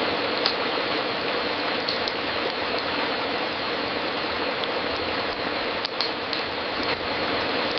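Fireplace crackling: a steady hiss of the flames with a few scattered sharp pops and snaps.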